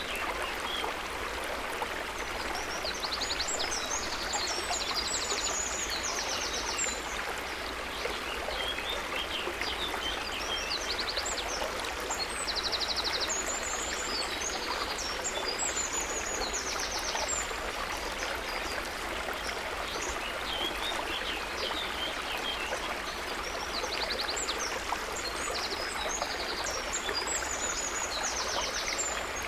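River water running steadily. Small birds chirp and trill high above it in three spells: early, in the middle and near the end.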